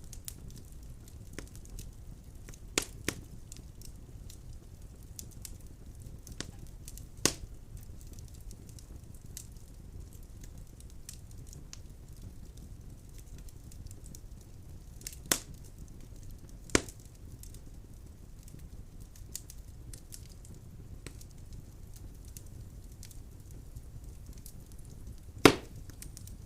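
Firewood burning in a fireplace: a steady low rumble of flame with scattered sharp cracks and pops from the logs, about six clear ones, the loudest near the end.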